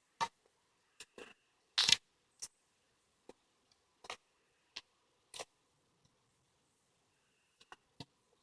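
Footsteps on a woodland path: short crunches and snaps at uneven intervals, the loudest a little under two seconds in.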